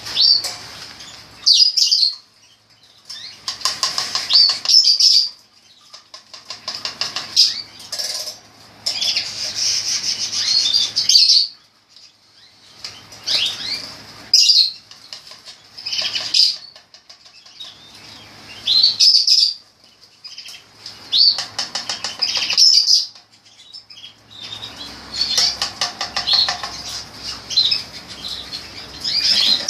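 Giboso Español canaries singing in bursts of rapid, high trilled phrases, each lasting a second or a few, broken by short pauses.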